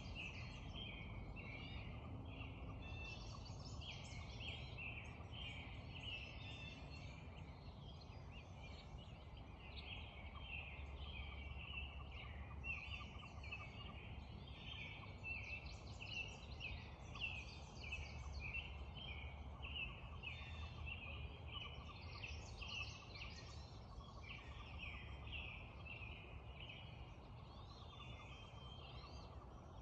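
Dawn chorus of many songbirds singing continuously, overlapping chirps and phrases, over a steady low rush of creek water.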